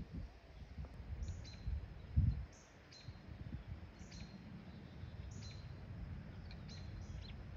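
Small birds chirping in short, high chirps about once a second, over a low steady rumble that swells briefly about two seconds in.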